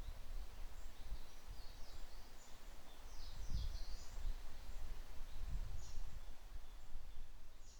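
Wind through a forest canopy, with gusts rumbling low on the microphone, and small birds giving short, high chirps in a busy cluster during the first half and a couple more near the end.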